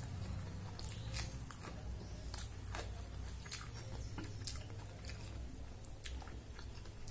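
Close-up chewing with wet mouth smacks, and scattered sharp clicks as fingers mix rice and greens on a steel plate, over a steady low hum.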